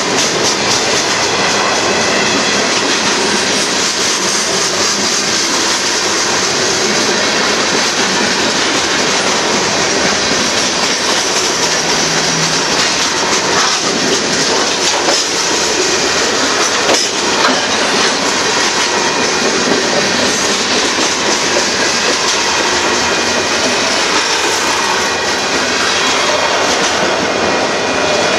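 Freight cars of a Union Pacific mixed freight train rolling past close by: a steady, loud rumble and clatter of wheels on the rails, with a couple of sharper clanks about halfway through.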